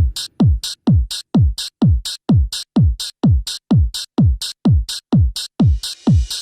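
Dance-pop song intro: a drum-machine beat of kick-drum thumps that drop in pitch, about two and a half a second, with hi-hat hits between them. It starts abruptly, and a rising sweep of noise builds near the end as the full track comes in.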